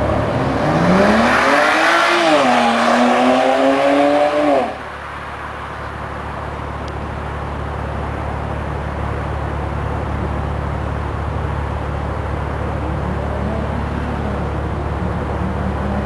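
BMW 135i's turbocharged straight-six accelerating hard, its exhaust note rising, falling once, then holding high before cutting off abruptly about five seconds in. After that a steady, quieter drone, with a faint engine note rising and falling near the end.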